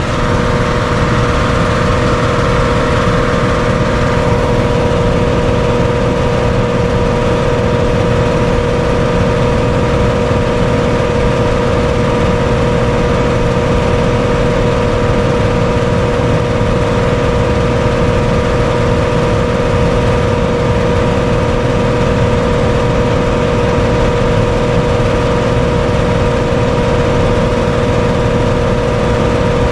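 Old mobile-home electric furnace running with its heat strips on: the blower moves air with a steady rush and a constant motor hum. The furnace is still running on its sequencer delay after the thermostat has been turned down.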